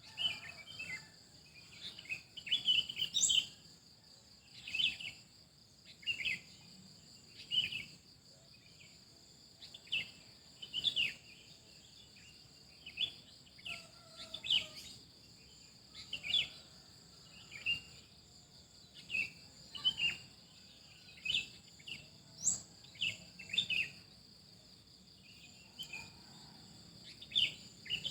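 Birds chirping in short, sharp calls about once a second, over a steady high-pitched insect drone.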